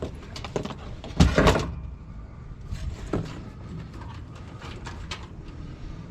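Hand-work noises on a metal HVAC unit: scattered clicks and knocks, with a louder scraping rattle of metal lasting about half a second just over a second in.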